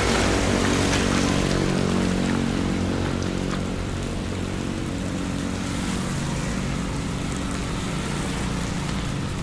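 Steady rain noise with a motor vehicle's engine running underneath, a little louder in the first couple of seconds.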